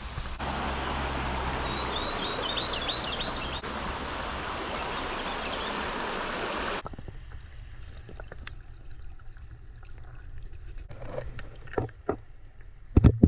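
Waterfall's rushing water, a steady noise, with a bird's quick run of chirps a couple of seconds in. About seven seconds in it cuts off abruptly to a much quieter scene with scattered clicks and knocks and a loud thump near the end.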